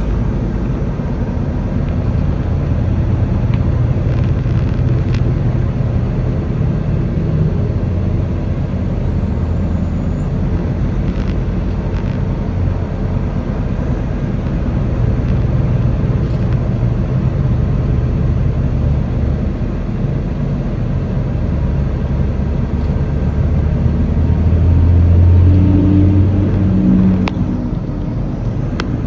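Semi truck running down the road: a steady diesel engine rumble with road noise. About 25 seconds in it gets louder, with a clearer engine tone, before settling again.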